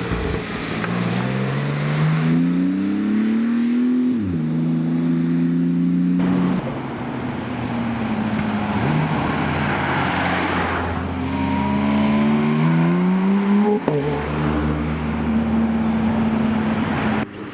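A supercar engine accelerating hard, its pitch climbing and then dropping sharply at an upshift about four seconds in. After a stretch of engine and road noise it climbs again and shifts up once more near the end.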